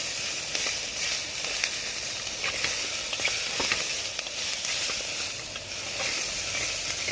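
Sliced calabresa sausage frying in hot oil with browned onion and garlic in a pot: a steady sizzle with small pops and crackles scattered throughout.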